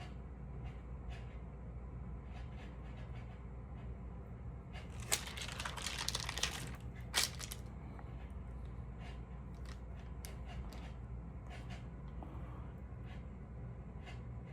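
Stamp pages being handled and turned, rustling about five to seven seconds in with a few faint clicks, over a low steady room hum.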